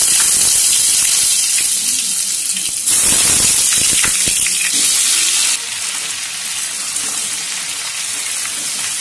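Raw potato chunks sizzling hard in hot mustard oil in a wok, a loud steady hiss of moisture hitting the oil. The sizzle drops abruptly to a lower level about two-thirds of the way through.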